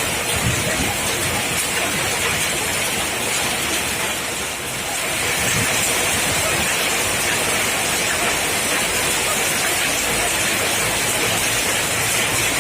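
Rain falling steadily, an even rushing noise with a brief dip about four and a half seconds in.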